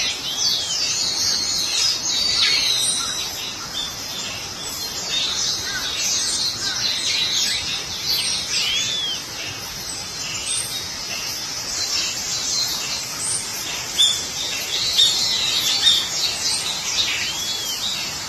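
Several birds chirping and calling at once, a dense run of quick high chirps, with a short call that rises and falls heard three times.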